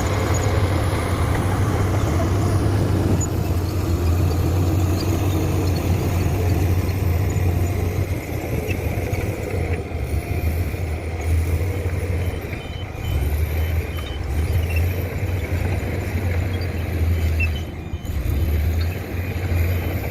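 Komatsu PC200 excavator's diesel engine running under working load, a steady low drone that rises and falls in strength during the second half.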